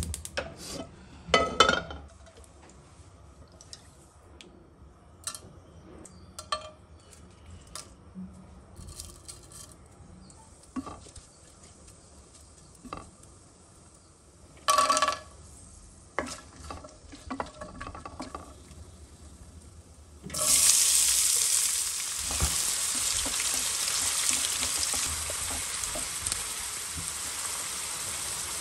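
Scattered light clinks and taps of utensils and ingredients going into a pan, then, about twenty seconds in, hot oil suddenly starts sizzling loudly as chopped onions go in, and the sizzle keeps up while they are stirred with a wooden spatula.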